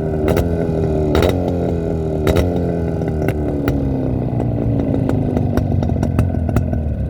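Jawa 350 two-stroke twin-cylinder motorcycle engine running, its note falling steadily as the revs drop, with sharp clicks or knocks about once a second.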